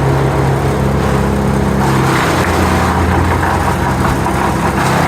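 An engine running steadily. About two seconds in its tone changes and drops lower, with a rougher, noisier sound on top.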